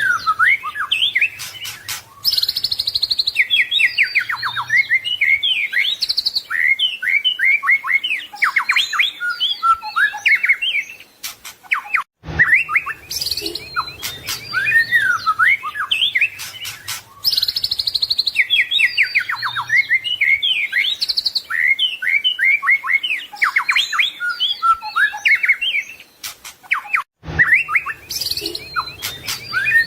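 White-rumped shama singing a long, varied song of quick whistled phrases, rapid trills and sliding notes. The same run of phrases repeats about every 15 seconds after a brief break, as in a looped training recording.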